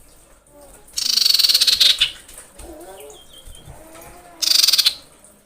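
Female common iora (cipoh) giving a harsh, rapid rattling call twice: a burst of about a second, then a shorter one near the end.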